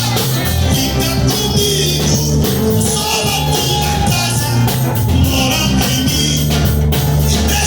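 A band playing a song, with a singing voice over bass notes and a steady drum beat.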